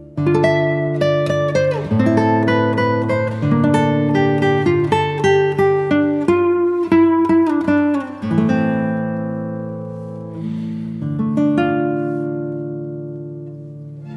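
Background music: acoustic guitar picking a gentle melody over held bass notes. In the second half, chords are struck and left to ring out and fade.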